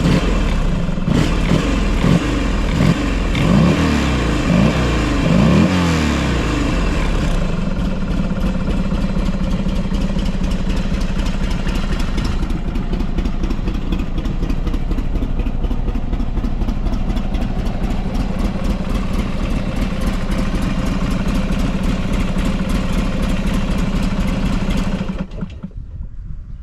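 Buell XB12SCG Lightning's air-cooled 1203 cc V-twin engine blipped and revved several times, then idling steadily for most of the time, and switched off near the end. The seller presents it as running with no abnormal noise.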